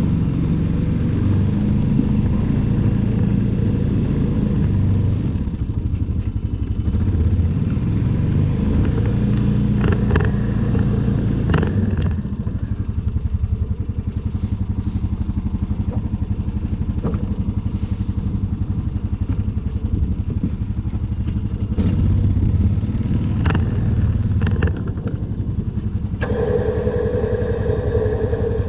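Engine of a snow-clearing machine running under changing load, with a few metallic clanks and a steady whine starting near the end.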